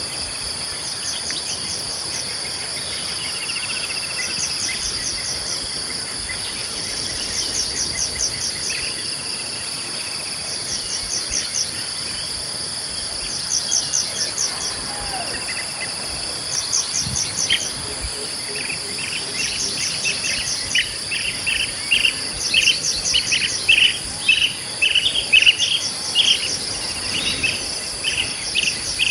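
Steady high-pitched chorus of crickets and other insects, with a short pulsed call repeating every two to three seconds. In the second half a bird sings a quick run of chirps, growing louder toward the end.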